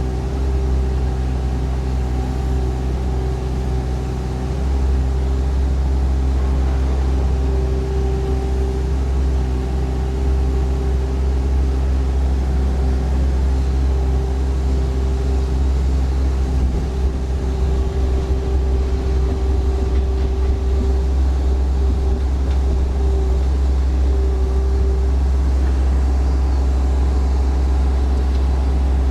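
Yanmar diesel engine of a compact tailless excavator running steadily under load, with a steady drone and engine tones. Its note steps up slightly about four and a half seconds in.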